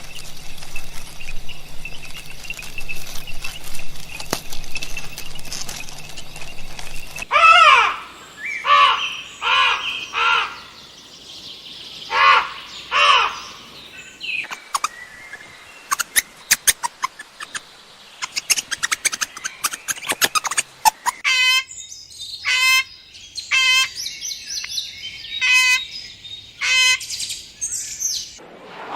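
Birds chirping and calling: first a busy twittering, then a series of falling whistled calls, and in the last third short calls repeated about once a second.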